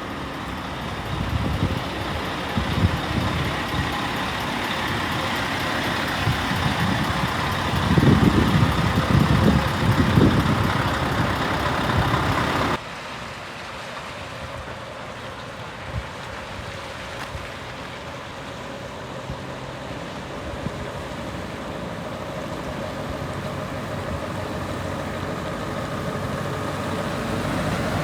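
Scania S730 truck's V8 diesel engine running, swelling louder for a few seconds. About halfway through, the sound drops abruptly to a quieter, steadier engine sound that slowly grows louder again.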